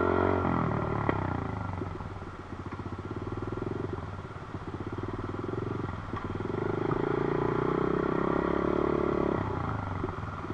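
Dirt bike engine running as it is ridden. The revs fall about a second in, stay low and uneven for a few seconds, then are held higher and steady for about three seconds before easing off near the end.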